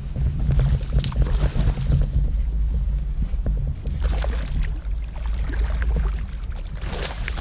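Water splashing and knocks around a kayak, over a low rumble of wind on the microphone.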